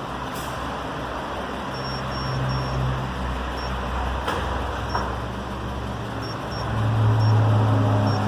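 A motor vehicle engine running steadily, growing louder about two-thirds of the way through, with a few short faint high beeps and two sharp clicks.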